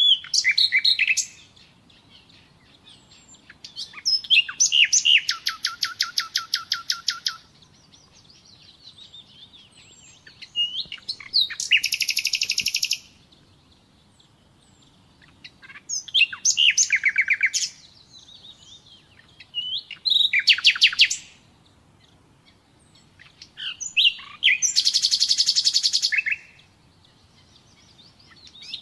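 Common nightingale singing: six phrases of rapid repeated notes and trills, each one to three seconds long, with pauses of a few seconds between them.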